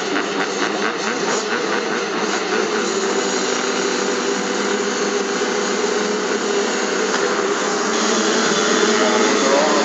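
Motocross bike engines running hard, a dense, steady engine noise with pitches wandering up and down as the throttles change.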